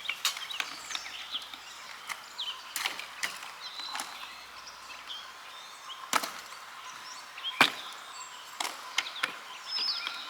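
Scattered sharp knocks and clatters of camp cookware and utensils being handled, with the loudest near the middle and again a little later, while birds chirp faintly in the background.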